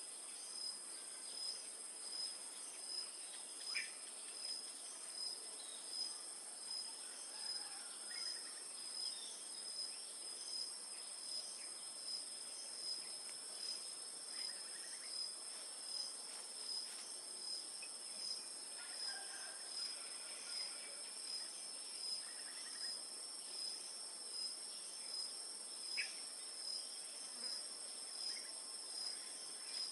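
Steady, high-pitched insect chorus of crickets, pulsing in a regular beat a little more than once a second. A few faint, short bird chirps are heard now and then.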